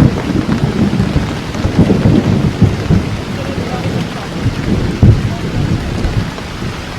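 Heavy rain pouring steadily, with a deep low rumble that is loudest at the start and dies away over the next few seconds.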